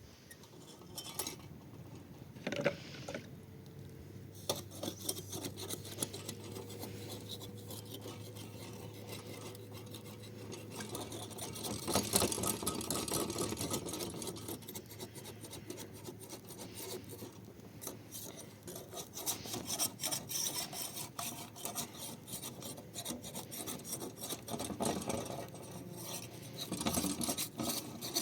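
Continuous scraping and rubbing by hand, with many quick small clicks throughout, louder a little under halfway through and again near the end.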